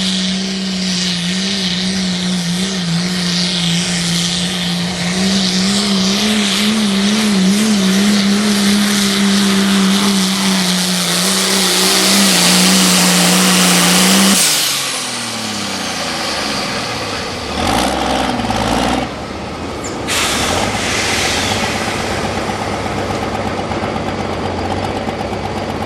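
A pull vehicle's engine running flat out under heavy load for about fourteen seconds, its steady note wavering slightly under a loud high hiss. It then cuts back abruptly, the pitch falling as it winds down, and settles to a lower running note, with a single sharp crack near the end.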